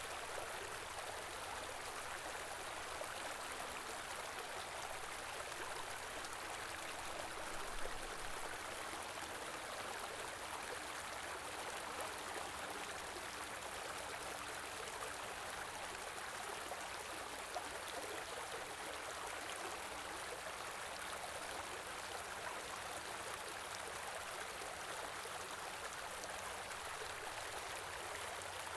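A small river or stream running steadily over rocks, an even rushing of water.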